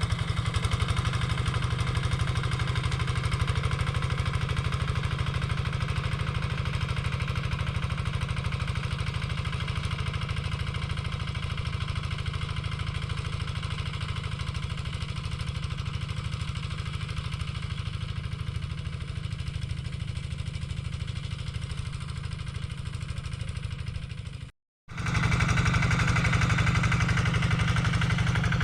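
Quick G3000 two-wheel hand tractor's diesel engine running steadily with a fast, even chugging, working as the tractor plows dry ground. It cuts out abruptly for a moment near the end and comes back a little louder.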